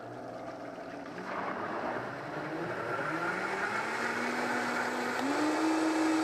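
Countertop blender motor running, mixing brine powder into water. Its pitch climbs in steps as it speeds up, with a jump about five seconds in, and it grows louder.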